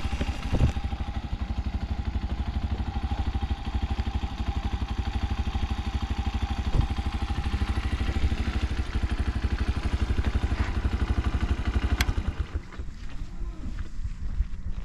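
Honda Solo's small four-stroke single-cylinder engine running steadily with an even exhaust beat and no abnormal noise. About twelve seconds in there is a sharp click and the engine stops, leaving only faint scattered knocks.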